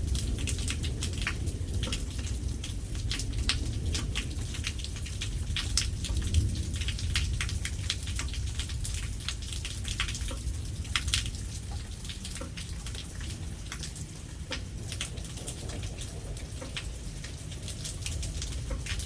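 Rain falling during a thunderstorm, with many separate drops striking a hard surface close by in quick, irregular clicks over a steady low rumble.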